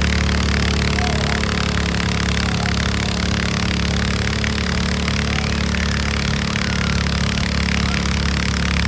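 Tractor engine running at a steady speed, with an even drone and no revving.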